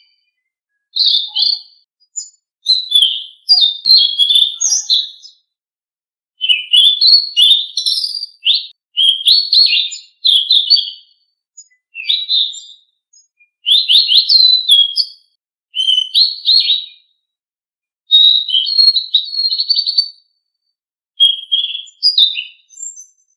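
Selendang Biru songbird singing: rapid phrases of high chirps and trills, each lasting one to three seconds, separated by brief pauses.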